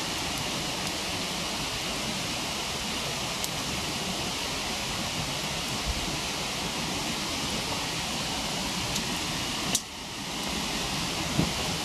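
Steady rushing of a waterfall, with a few faint crackles from a wood campfire and one sharper pop about ten seconds in.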